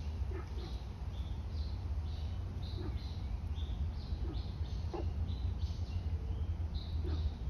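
Small birds chirping, short high calls repeating one or two times a second, over a low steady rumble.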